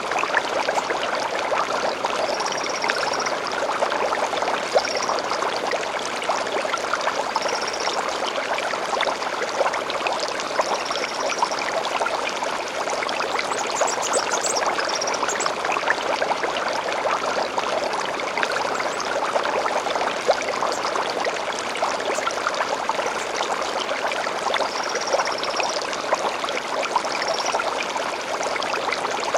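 A steady rush of flowing water from a stream, with small birds giving short, high chirps every few seconds over it and a quick flurry of notes about halfway through.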